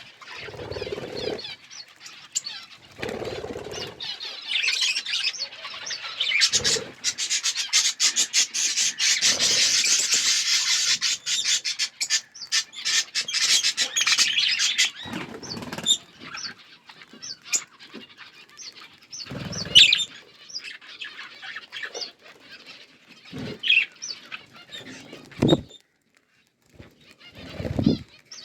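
A flock of budgerigars chattering and chirping, with a dense stretch of warbling in the first half and sparser chirps later. Brief low bursts that fit wing flapping come now and then.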